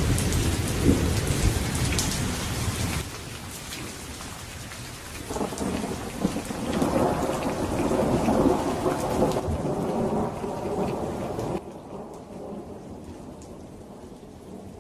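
Steady rain falling with a long roll of thunder that swells about five seconds in and dies away; the whole sound drops suddenly in level about three seconds in and again near the end.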